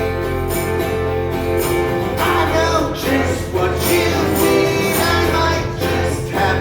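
Band playing live on acoustic guitars, with singing.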